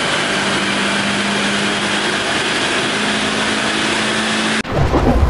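Lotus Elise engine running steadily on a rolling-road dyno, loud, holding a nearly constant pitch. It cuts off abruptly near the end, replaced by an intro of electric guitar music.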